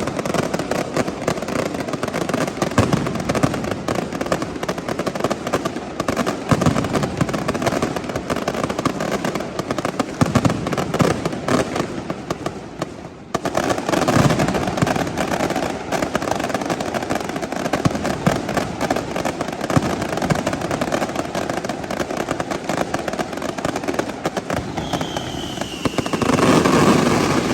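Fireworks going off in a dense, continuous barrage of bangs and crackles. It eases briefly about halfway, then picks up again and swells to its loudest near the end.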